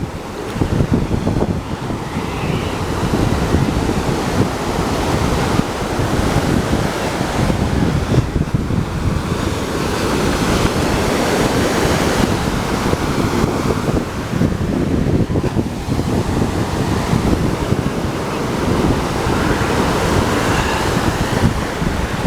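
Ocean surf washing in continuously, with wind buffeting the microphone.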